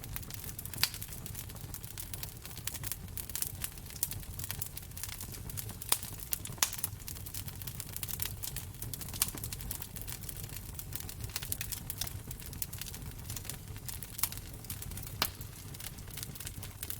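Wood fire crackling in a fireplace: irregular sharp pops and snaps over a steady low rumble of the flames, a few pops standing out louder.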